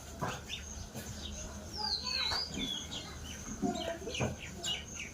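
Young parrot calling with a run of short, high chirps and squawks, including a swooping call that falls then rises about two seconds in.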